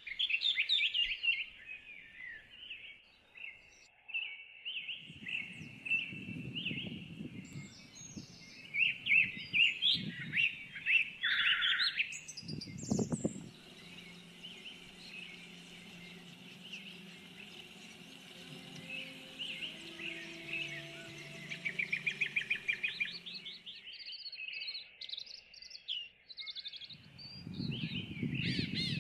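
A chorus of small birds chirping, with rapid trills and quick repeated chirps. A low steady hum sits beneath them through the middle stretch.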